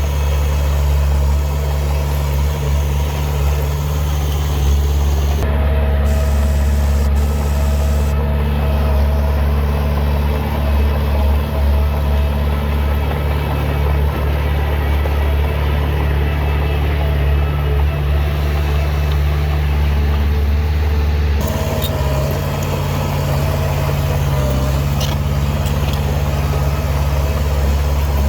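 Heavy diesel engine of earthmoving machinery running with a steady low drone.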